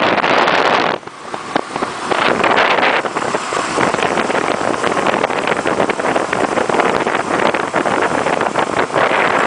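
Ice boat's runners sliding fast over the ice, a continuous rushing scrape full of small clicks and knocks, with wind buffeting the microphone. The level dips briefly about a second in.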